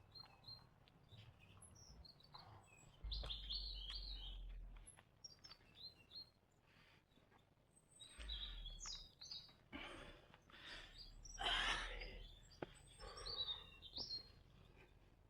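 Forest birds chirping and calling at intervals: short high chirps early on, then louder, coarser calls in the second half.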